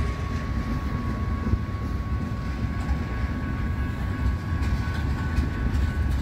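Canadian Pacific freight train of oil tank cars rolling past: a steady low rumble of wheels on rail, with a thin steady high tone above it.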